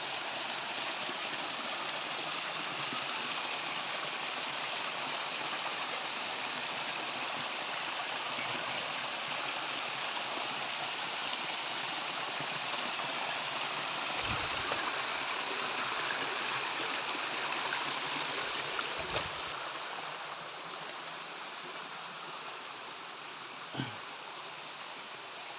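Stream water running steadily over rocks, an even rushing hiss that eases a little over the last few seconds. A few soft low knocks are heard in the middle and near the end.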